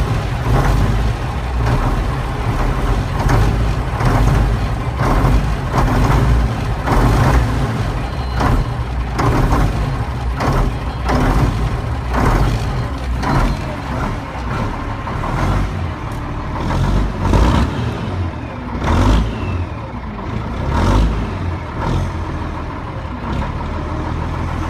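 Mack truck's diesel engine running just after a cold start, its throttle blipped again and again so it surges in pulses about once a second over a steady low rumble.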